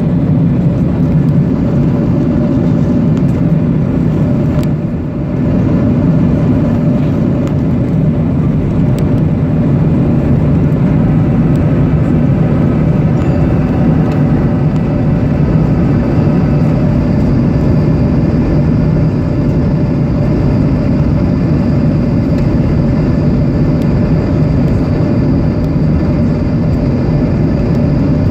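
Steady, loud rumble of a Boeing 737-800 in flight on its arrival, its CFM56 jet engines and airflow making an even drone with a few faint steady engine tones above it. The level dips briefly about five seconds in.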